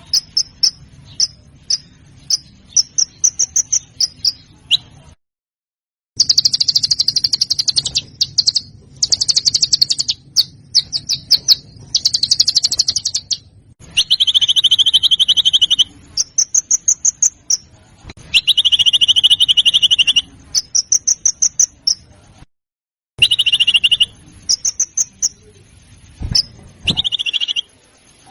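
Recorded songbird calls: high-pitched, rapid rattling trills and harsh chattering phrases repeated over and over, cut by two brief dead silences where the recording is spliced.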